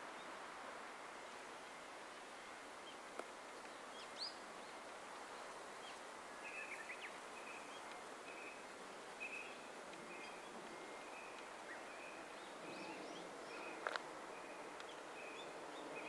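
Wild birds chirping faintly over a steady outdoor hiss: a few high chirps about four seconds in, then a run of short repeated notes from about six and a half seconds on. Two sharp clicks, near three seconds and near fourteen seconds.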